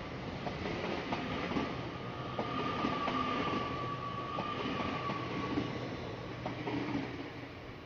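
Avanti West Coast Class 807 electric train passing at speed: a steady rush of wheels on rail with a sustained whine and scattered clicks over rail joints, fading away near the end.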